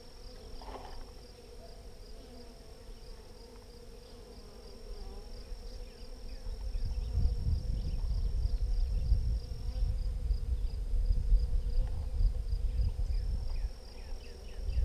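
Honeybees buzzing in a steady hum around an open hive. In the middle, a loud low rumble comes in for several seconds and then drops away.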